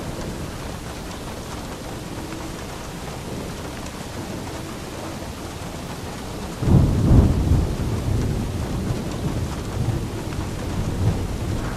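Steady rain falling, with a clap of thunder breaking in a little past halfway: a sudden low rumble, loudest in its first second or so, then rolling off slowly under the rain.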